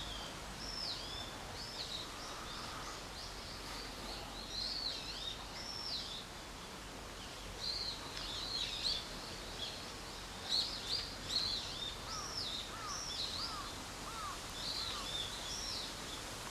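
Small birds singing: quick whistled notes swooping up and down, with a lower run of about five short chirps two-thirds of the way through, over a steady background hiss.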